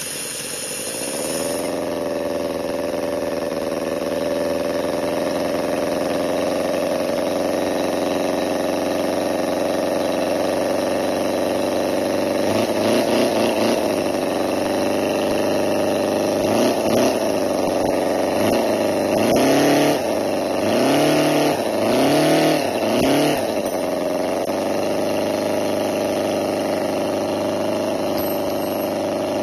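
Miniature four-stroke model engine running steadily, revving up and back down several times through the middle before settling back to an even idle.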